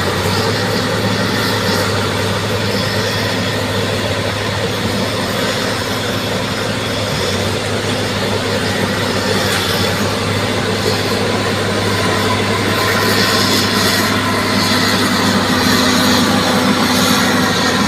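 Bulldozer's diesel engine running steadily while at work, a little louder in the last few seconds.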